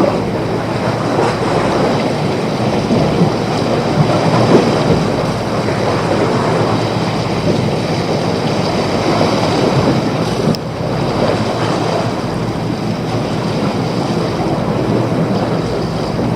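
Steady rushing water, a dense even noise like surf or a fast stream, with no clear rhythm. A short click and brief drop in level about ten and a half seconds in.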